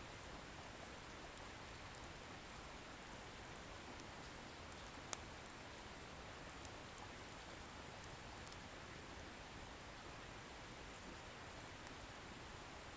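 Wood bonfire burning: a soft, steady hiss with sparse faint crackles of the firewood and one sharp pop about five seconds in.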